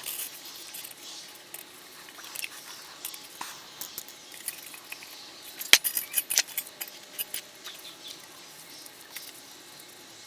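Small metal parts of a Coleman 502 single-burner gasoline stove clicking and clinking as they are handled during disassembly, with one sharper click about halfway through.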